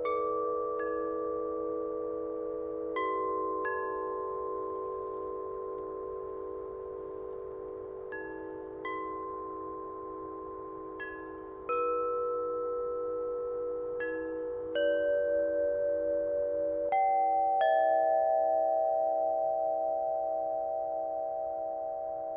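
Meinl chime tuned to 432 Hz, its metal rods struck one note at a time at an uneven pace. Each note rings on for many seconds, so the notes overlap into a shimmering chord, with a low tone wavering slowly underneath.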